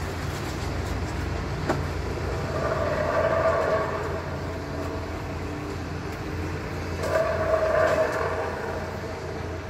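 Eerie horn-like groan heard in the sky, one of the 'strange sound' (skyquake) recordings, swelling twice into long brassy moans over a steady low rumble.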